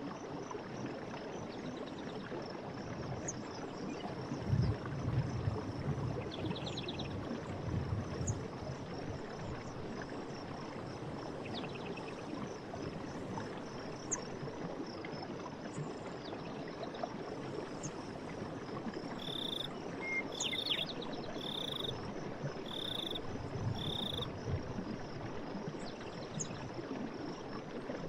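Forest stream running steadily, with birds calling over it: a couple of brief high trills, then a run of five short repeated notes in the second half. A faint steady high tone sits underneath throughout.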